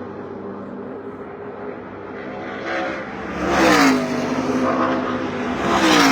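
NASCAR Truck Series race trucks' V8 engines at speed on the track: a steady drone of trucks lapping, then two trucks pass close by, about two seconds apart, each rising to a peak and dropping in pitch as it goes past.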